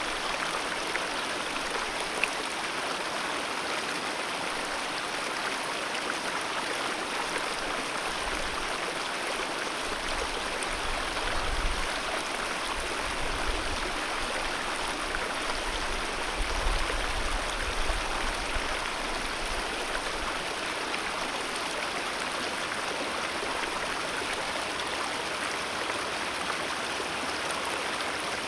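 Alpine mountain river flowing, a steady continuous rush of water. A low rumble swells and fades in the middle stretch.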